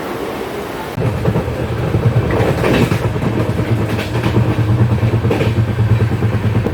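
Mumbai local train running on the track, a steady loud rumble of wheels and carriages with some rail clatter. It gets suddenly louder about a second in.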